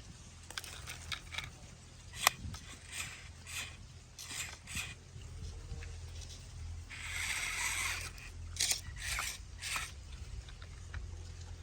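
Soil scraping and crunching as a remote-control toy tractor loads dirt: a run of short clicks and scrapes over a low steady hum, with a longer rush of loose soil about seven seconds in.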